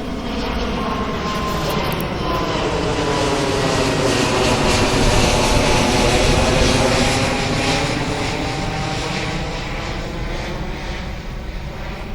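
Twin-engine jet airliner passing low overhead. The engine noise builds to a peak about halfway through and then fades away, with a sweeping, phasing whoosh as it goes by.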